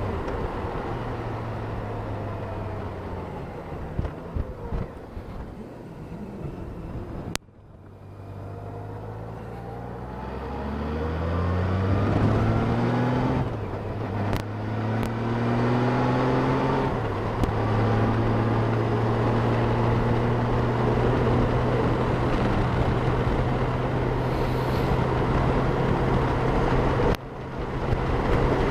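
Honda Gold Wing motorcycle engine and wind rush heard at the rider's helmet: the bike pulls away and accelerates through the gears, the engine pitch rising and dropping back at each upshift, then settles into a steady cruise. The sound cuts out suddenly for a moment about a third of the way in and again near the end.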